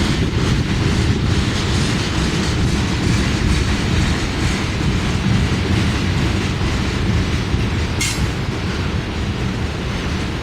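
Freight train of ethanol tank cars rolling past, a steady low rumble of wheels on rail. A brief sharp noise stands out about eight seconds in.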